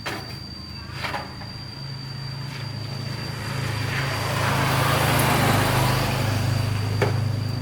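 A motor vehicle's engine hum and hiss grow louder to a peak about five seconds in, then ease slightly. There are a few sharp knocks near the start, about a second in and near the end.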